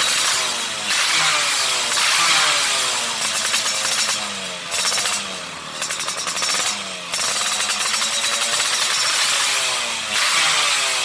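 Yamaha F1ZR two-stroke engine revving through a stainless-steel standard-racing exhaust, the throttle opened and closed again and again so the pitch rises and falls.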